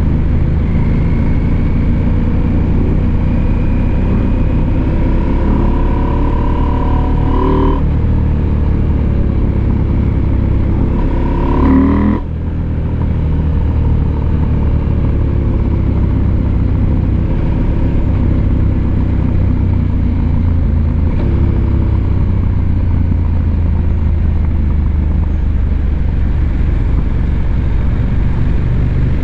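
Husqvarna Norden 901's parallel-twin engine running under way, its revs rising and falling as the rider works the throttle. About twelve seconds in the revs climb, then cut off briefly and drop, as at a gear change.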